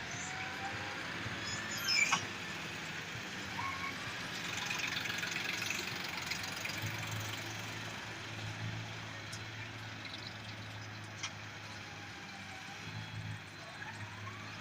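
Tractor loader's engine running steadily while loading sand, with a sharp knock about two seconds in and a smaller click later.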